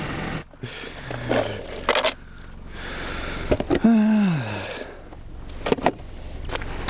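Steel tyre snow chains being handled and fitted, the metal links jingling and clanking in several sharp knocks, over the low hum of the car's idling engine. About four seconds in there is a brief falling tone.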